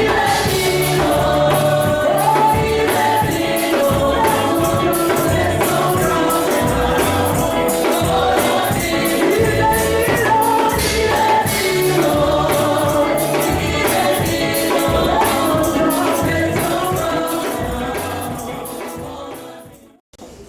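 Gospel music: a choir singing over a band with a steady beat of bass and percussion, fading out near the end.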